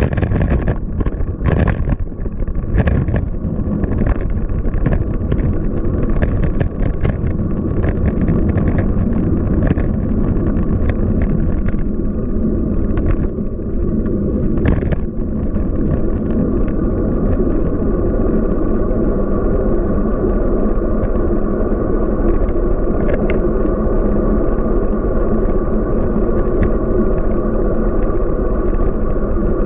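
Steady rumble of wind on the microphone and tyre noise from a Scott Speedster CX 20 road bike being ridden on city streets. A run of short sharp clicks and rattles comes over the first half, then thins out.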